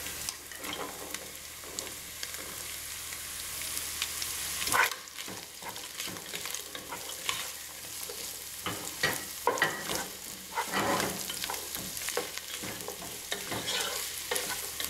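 Chorizo and sausage sizzling steadily in a pot as diced carrot and celery go in, with a wooden spoon stirring and scraping against the pot, giving irregular knocks over the frying.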